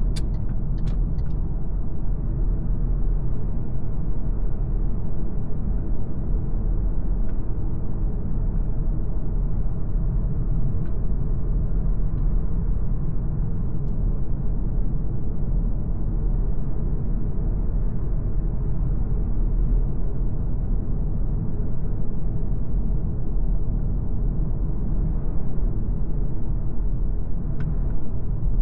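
MG ZS Hybrid+ hybrid SUV on the move: a steady low rumble of road and drivetrain noise at an even level, with a few faint clicks.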